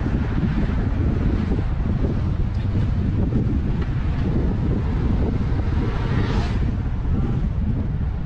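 Wind buffeting the microphone over the steady low rumble of a car driving on the road. About six seconds in there is a brief higher whoosh.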